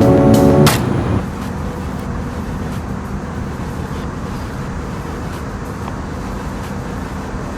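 Steady jet engine and airflow noise heard inside the cabin of an Airbus A319 airliner in flight. Background music fades out about a second in.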